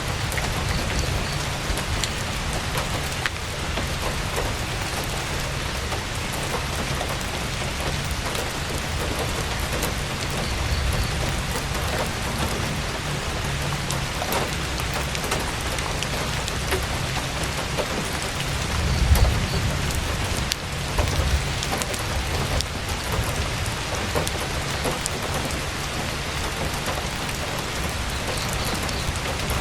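Heavy rain pattering steadily on tent canvas, with scattered sharp clicks. A low rumble swells briefly about two-thirds of the way through and again shortly after.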